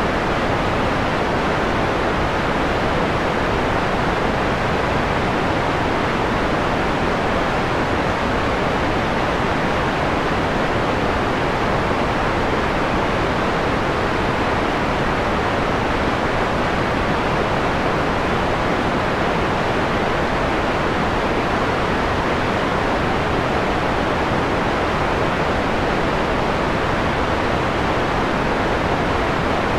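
Steady electronic white noise, filtered to a mellow, darker hiss with the highs softened, like pink noise. It holds even throughout.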